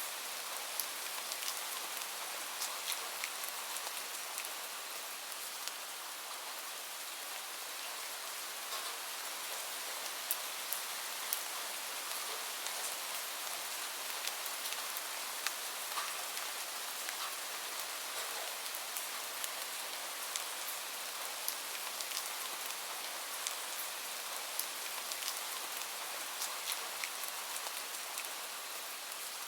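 Steady gentle rain, an even hiss with scattered small sharp ticks all through.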